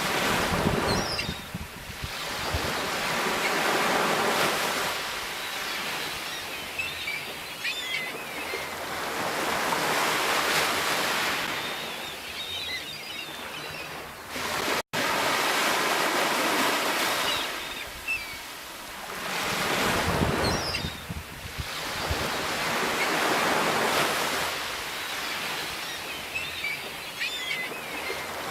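Sea waves surging and washing ashore, a hissing rush that swells and fades every few seconds, with a split-second cut-out in the sound about halfway through.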